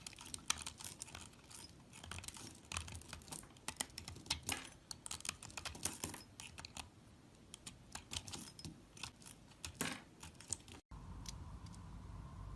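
A blade cutting and scraping through a bar of soap, making rapid, crisp crackling clicks. About eleven seconds in the sound breaks off suddenly and gives way to a steady low hum with only a few light clicks.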